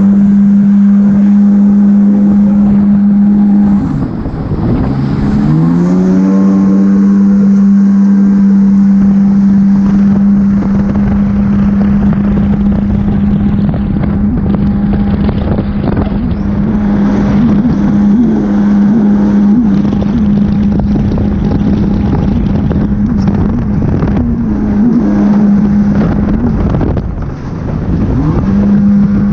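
Jet ski engine running at a steady high speed under full throttle, with water and wind noise underneath. Twice the throttle is eased off, the pitch drops and then climbs back up: once about four seconds in and again near the end.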